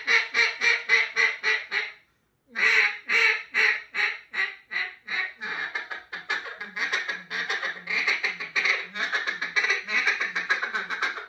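Hand-blown duck call, a double-reed call with one reed taken out, quacking in a rapid series of short notes. There is a brief break about two seconds in, then a long run that starts loud and grows quicker and denser in the second half, like feed chatter.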